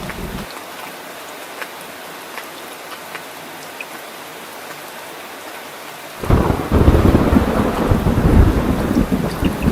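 Steady rain falling with scattered drips; a low rumble of thunder stops abruptly half a second in, and about six seconds in a loud thunderclap breaks out and rumbles on.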